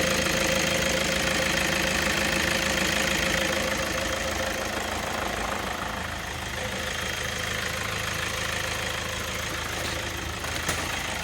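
Toyota Innova engine idling steadily, with no steering squeak heard.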